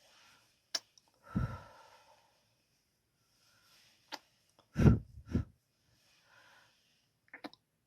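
ASMR kissing sounds: three breathy kisses, two of them close together past the middle, with sharp lip smacks between them.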